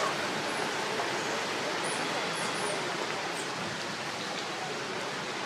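A steady rushing outdoor noise, with a few faint high chirps from about two to three and a half seconds in.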